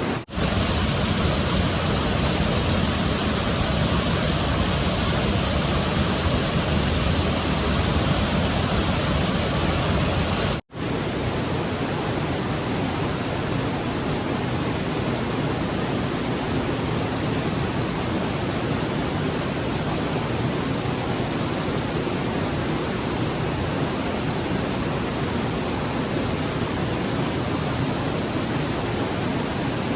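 Rushing stream water, a steady noise, cut off for an instant just after the start and again about ten seconds in; after the second break it is a little quieter.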